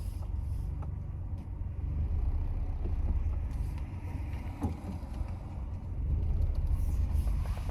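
A car's steady low rumble of engine and road noise, with a few faint clicks.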